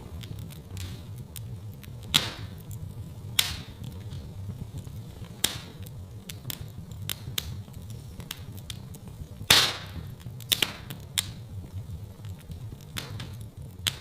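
Wood fire crackling in a fireplace: irregular sharp pops and snaps over a steady low rumble of the flames. The loudest pop comes about two-thirds of the way through.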